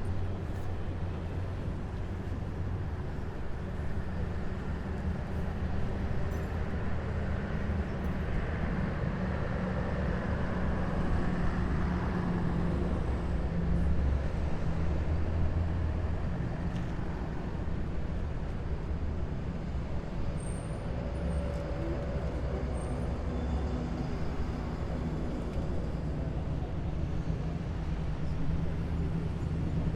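Heavy military vehicles passing in a column, their diesel engines giving a steady low rumble that swells about halfway through.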